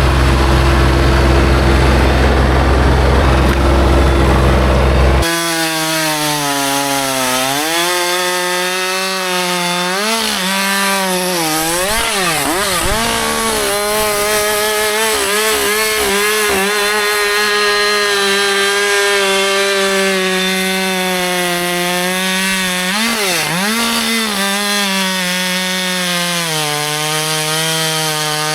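Husqvarna 564 XP 62cc two-stroke chainsaw cutting wood at full throttle, its pitch dipping and recovering again and again as the chain loads up in the cut. A louder low steady rumble covers it for the first five seconds.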